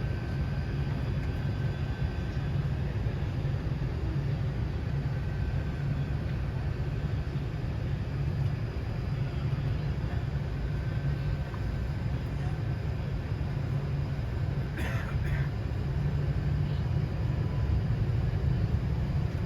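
Airbus A380 airliner rumbling steadily with a deep low drone, with a brief rattle about three-quarters of the way through.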